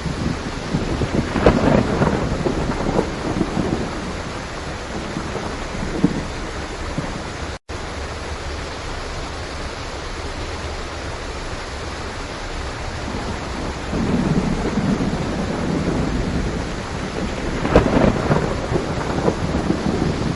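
Steady rain with rolling thunder that rumbles about a second in and builds again over the last third. The sound cuts out for an instant about a third of the way through.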